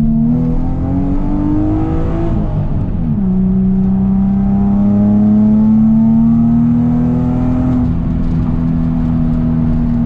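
Nissan 350Z's 3.5-litre V6 pulled hard under acceleration, heard from inside the cabin. The revs climb for about two seconds, drop at an upshift, then climb again more slowly through the next gear and level off near the end.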